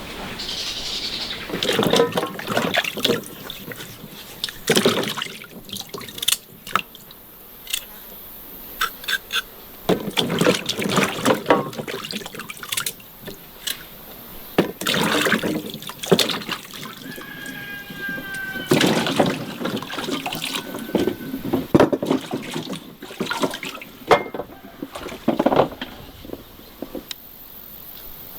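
Water splashing and pouring in uneven spells, with many short knocks between them.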